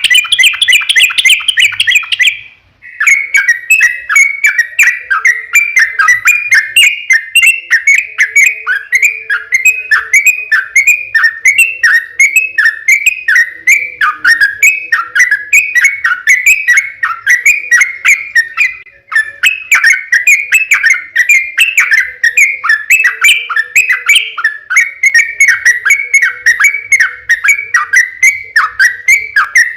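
Yellow-vented bulbul (trucukan) singing long, rapid runs of short falling notes, a loud lure-song recording. There are brief breaks about two and a half seconds and nineteen seconds in.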